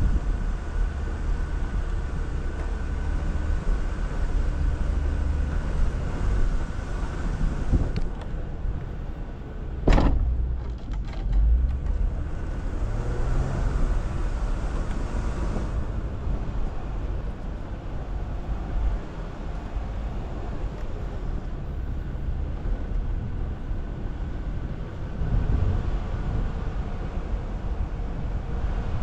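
Jeep Wrangler Rubicon driving slowly off-road, its engine running low and steady with road and drivetrain noise. About ten seconds in comes a sharp knock, followed by a few lighter knocks.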